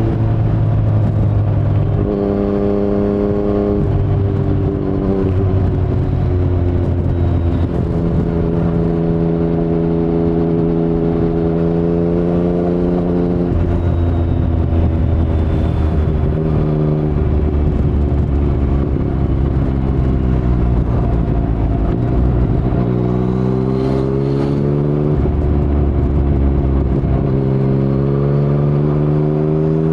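Yamaha MT-09's 847 cc inline-three breathing through an Akrapovic carbon full-system exhaust with no dB killer, heard while riding. The engine note climbs and falls with throttle, with sudden steps in pitch as gears change.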